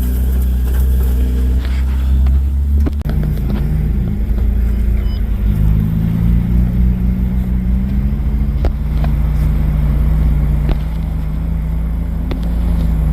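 4x4 engine running while driving off-road, its pitch rising and falling as the driver works the throttle, with a brief dip a little under three seconds in and a few sharp knocks.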